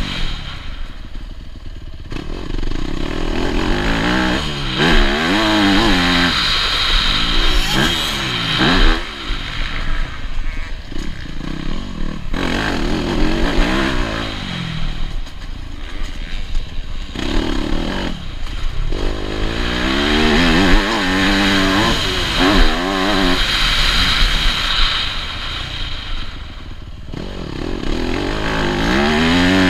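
Yamaha YZ250F motocross bike's four-stroke single-cylinder engine, recorded on board, revving up and easing off again and again as the throttle is opened and closed through the gears.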